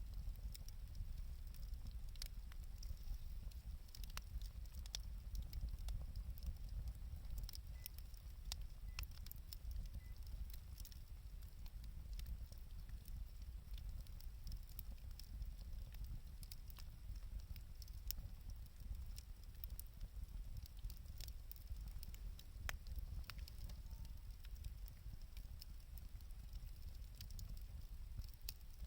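Wood fire burning, with irregular crackles and pops over a low, steady rumble.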